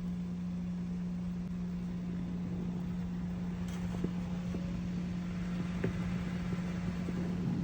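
A car running, heard as a steady hum with a low rumble, with a few faint clicks partway through.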